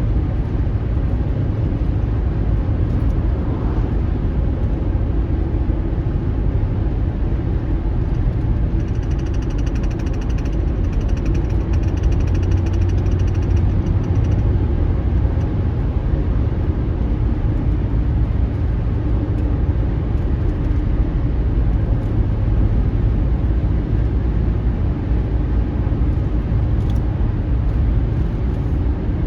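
Steady road noise of a car driving, heard from inside the cabin: low engine and tyre rumble. A faint thin high tone comes in about nine seconds in and stops around fourteen seconds.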